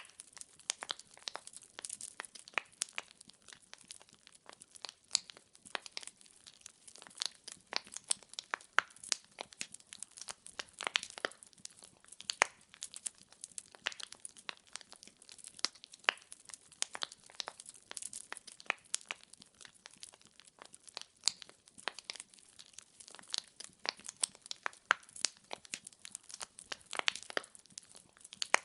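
Wood fire crackling: burning logs give irregular sharp snaps, several a second, over a faint hiss.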